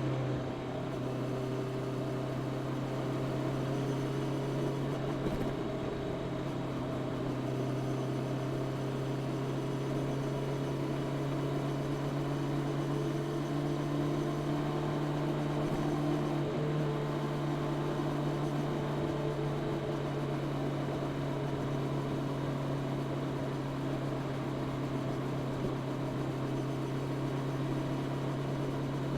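Honda CB650R's inline-four engine with its stock exhaust, running at a steady cruising speed, its note held almost constant, over a steady hiss of wind and road noise.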